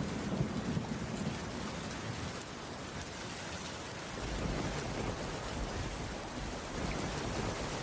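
Steady rainfall on a wooden cabin roof, with a low rumble under it at the start that swells again about halfway through.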